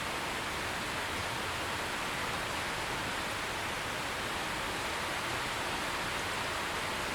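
Steady, heavy rain falling, an even hiss with no thunder.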